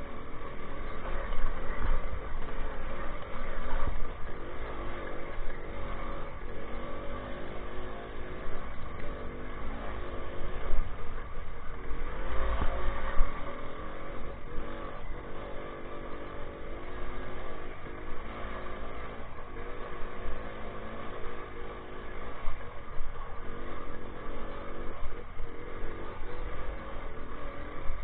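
Minsk 125 single-cylinder two-stroke motorcycle engine running under way off-road, its engine speed rising and falling again and again as the throttle changes.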